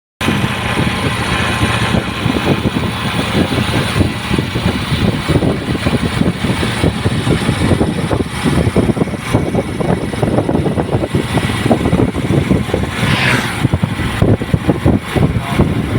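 Royal Enfield Continental GT 650's 648 cc parallel-twin engine running through its exhaust with a steady, throbbing beat. A brief falling whine is heard near the end.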